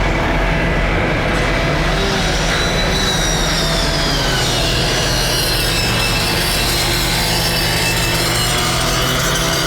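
Steady engine drone over a wash of wind and rain noise, with a thin, wavering high whine joining about four seconds in.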